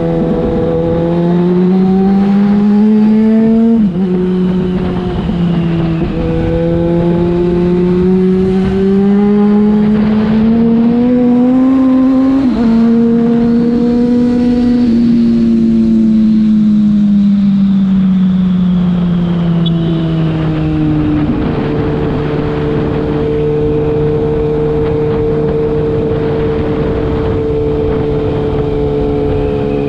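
Yamaha FZ6's inline-four engine through a Leovince aftermarket exhaust, pulling through the gears: the pitch climbs and drops suddenly at two upshifts, about four and twelve seconds in. It then falls away as the bike slows and settles to a steady note for the last several seconds.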